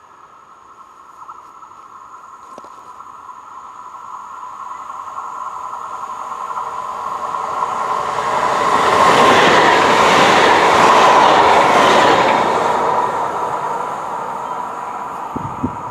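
SNCF TER electric passenger train passing by: its rolling noise builds from a distance, is loudest about nine to twelve seconds in, then fades, with a steady high whine running under it.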